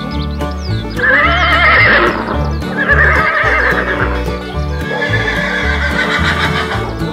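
Three horse whinnies, laid over background music with a steady, repeating bass line.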